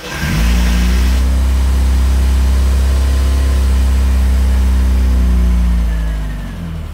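Classic Mini's supercharged four-cylinder A-series engine catching after cranking and then running steadily at a raised idle, its revs dropping back near the end.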